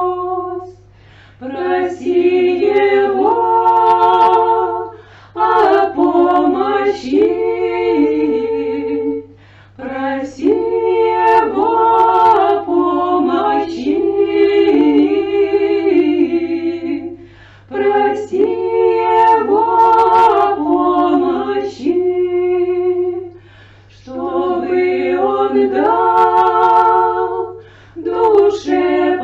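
Women's folk ensemble singing an old Russian spiritual verse a cappella in harmony, in sung phrases of a few seconds broken by short pauses for breath. A faint steady low hum lies underneath.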